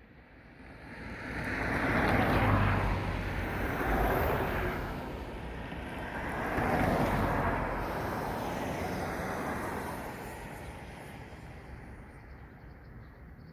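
An airplane passing overhead: a broad rushing engine noise that builds over the first two seconds, swells and eases a couple of times, then slowly fades away.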